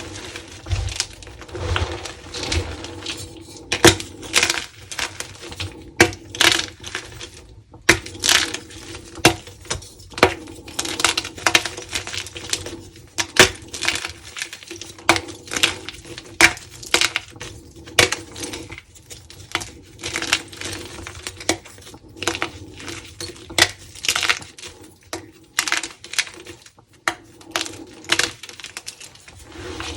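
Crunchy dyed gym chalk being crushed and crumbled, giving sharp crunches and crackles at irregular intervals, often one or two a second.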